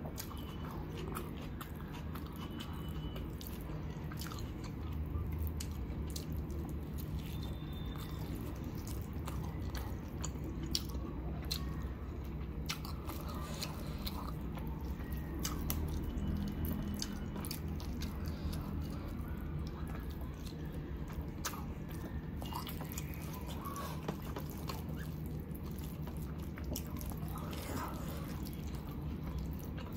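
Close-miked chewing and biting of chicken biryani, with many wet mouth clicks and smacks, over a steady low hum.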